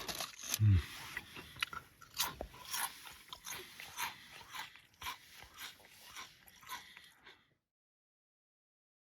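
Close-up eating: irregular crunching and chewing clicks, with a short low grunt just under a second in. The sound cuts off abruptly about two seconds before the end.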